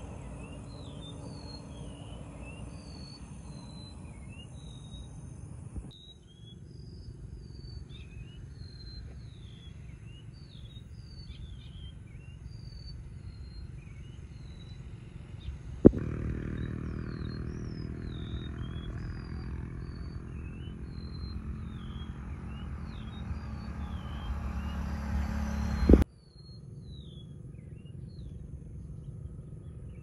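A bird calling over and over in short, high chirps and slurred notes, one or two a second. A sharp knock about halfway through and another near the end, with a low rumble of handling noise between them.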